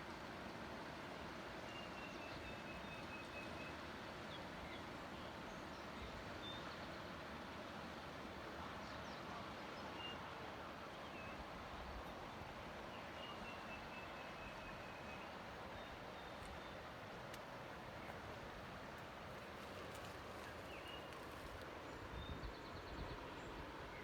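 Steady outdoor rushing noise, with a small bird singing twice: a run of about ten clear notes falling slowly in pitch, plus a few single chirps.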